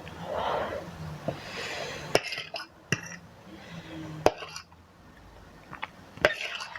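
Metal fork and spoon clinking against a bowl of instant noodles, about four sharp clinks spread through, with softer eating noises between.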